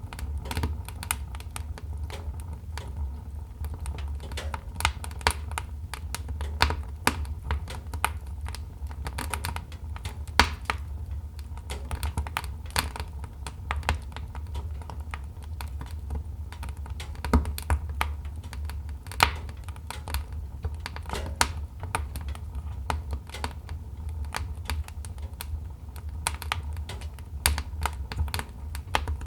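Wood fire crackling: a dense, irregular run of sharp snaps and pops, a few louder than the rest, over a steady low rumble.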